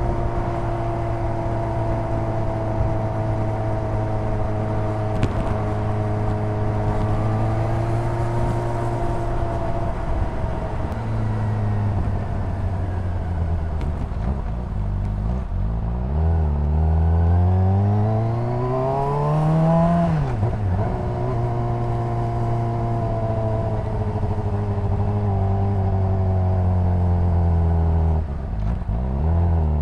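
Honda CBR600RR's inline-four engine and exhaust heard while riding. It runs at steady revs, then about halfway through the revs climb steadily for a few seconds and drop sharply. It settles back to steady running, with a brief dip in revs near the end.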